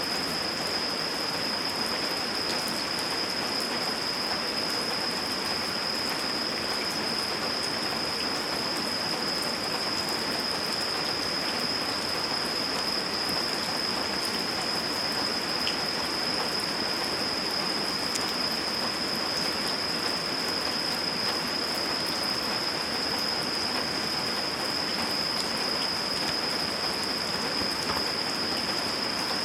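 Steady rain falling, with a few faint scattered ticks. A steady high-pitched tone runs through it.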